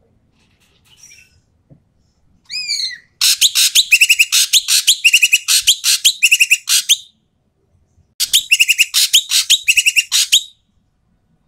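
Ekek keling bird calling loudly and harshly. A short swooping note comes first, then two long runs of rapid, scratchy chattering notes with a pause of about a second between them.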